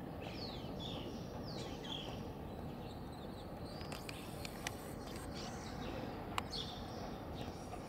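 Small birds chirping again and again in short, high, quick notes over a steady low rumble. Two sharp clicks cut in, the louder one about six seconds in.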